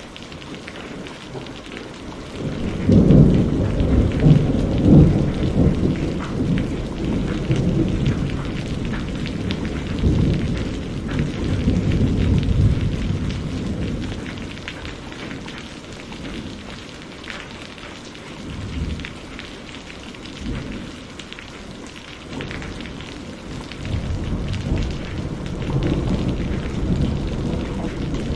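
Steady rain with rolling thunder. A loud, deep rumble breaks in about three seconds in and rolls on for some ten seconds; another builds near the end.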